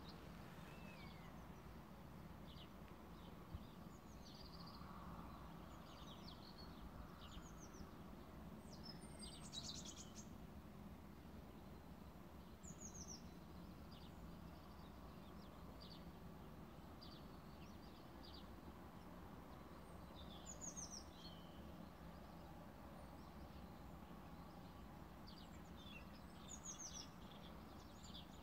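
Birds singing faintly in the open: scattered short, high chirps and a few brief trills, over a steady low background rumble.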